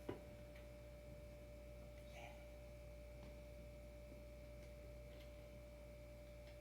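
Near silence: room tone with a faint steady high whine, a small click at the very start and a few faint ticks.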